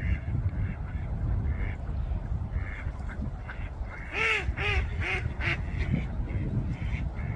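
Ducks quacking: fainter calls repeat throughout, with a run of four loud quacks about four seconds in. A steady low rumble lies underneath.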